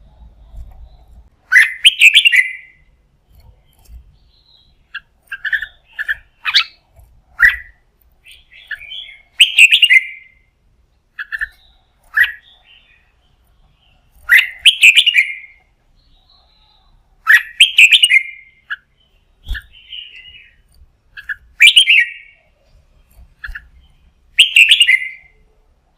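Red-whiskered bulbul singing a loud, full adult song: short bright phrases every two to three seconds, with softer chirps between them.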